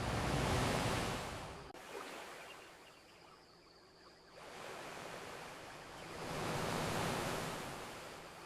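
Ocean waves breaking and washing up the shore: one surge at the start that fades over a couple of seconds, then a second wave building about four seconds in and peaking near the end.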